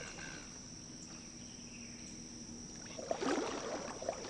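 A wooden paddle dipping and splashing in still swamp water from a pirogue, starting about three seconds in. Under it runs a steady high-pitched insect chorus.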